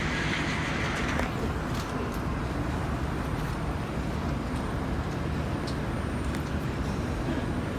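Steady running rumble of a Kawasaki-CRRC Sifang CT251 metro train heard inside the car as it travels between stations, with a higher hiss that fades about a second in and a few faint ticks.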